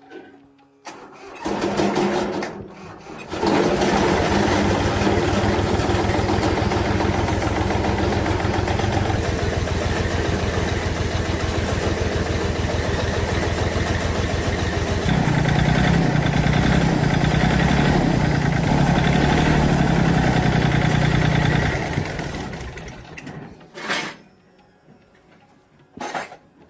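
Old tractor diesel engine cranked briefly and starting about three seconds in, then running steadily, with its note rising about halfway through; it is the repaired engine that would not start before. It stops shortly before the end, followed by two sharp knocks.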